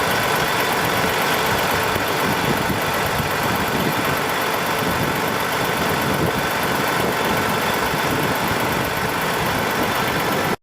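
Peterbilt 379 dump truck's diesel engine idling steadily.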